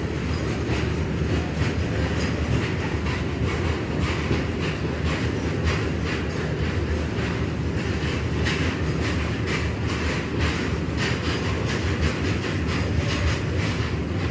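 Coal freight train running past, its wagons making a steady low rumble with a continuous clickety-clack of wheels over the rail joints.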